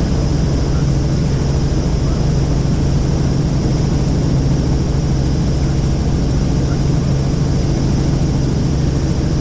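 Helicopter in flight, heard from inside the cabin: a steady, loud drone of rotor and engine with a constant high whine above it.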